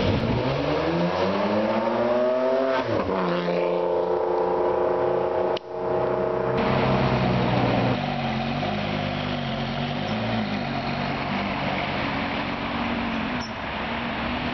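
Sports car engines accelerating hard. The note climbs steeply, drops at a gear change about three seconds in and holds high. It breaks off sharply just before six seconds. A deeper, steadier engine note follows as a car pulls away.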